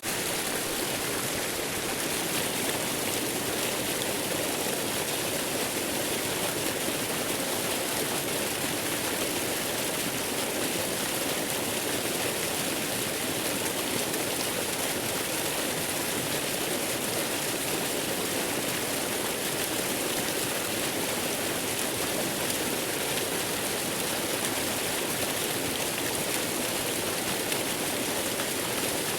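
Waterfall rushing: a steady, even wash of falling water that doesn't change.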